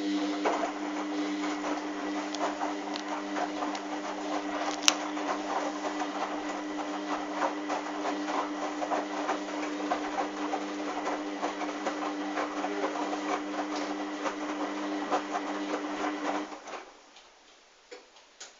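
Hoover washing machine running a sudsy wash. A steady motor hum sounds under a dense crackle of water and suds, and stops about 17 seconds in.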